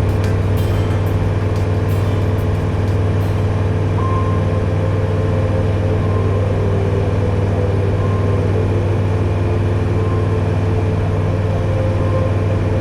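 Steady drone of a light aircraft's piston engine and propeller, heard from inside the cockpit, with a few sharp clicks in the first seconds.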